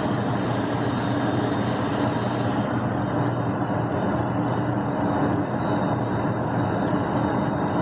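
Gas furnace running steadily, its burners firing and its fans going, with a constant low hum under an even rushing noise. The burners are running lean on low gas pressure, which is being turned up.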